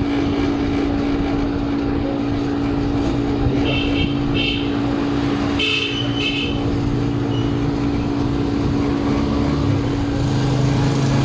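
A steady low mechanical hum over road-traffic noise, with short horn-like toots about four and six seconds in.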